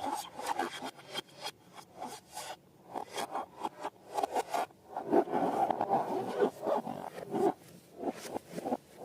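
Rubber balloons and slime being worked by hand: irregular rubbing and scraping with many quick strokes and squeaky, rubbery stretches.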